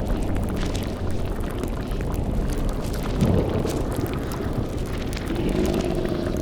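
Layered spooky ambience: a bubbling, boiling cauldron over a low rumble with constant small crackles. About three seconds in, a short pitched sweep rises and falls, and a held eerie tone comes in near the end.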